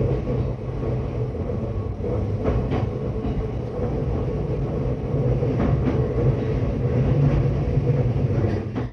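Running noise heard inside the carriage of a JR East E235-1000 series electric train: a steady rumble of wheels on rail with a few faint clicks. It cuts off suddenly at the very end.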